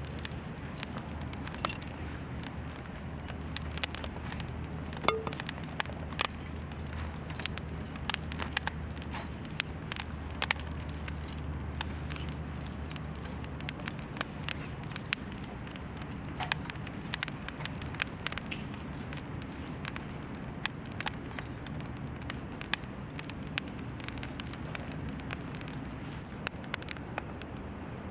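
Wood fire burning in a campfire stand, crackling with frequent sharp, irregular pops, over a low steady rumble.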